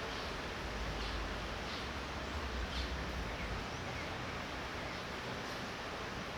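Steady light rain falling, with a low rumble of distant thunder that dies away about halfway through.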